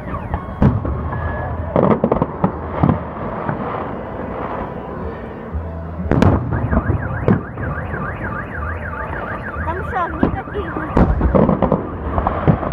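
Fireworks salute bursts banging at irregular intervals, with a car alarm wailing in fast rising-and-falling sweeps through the middle.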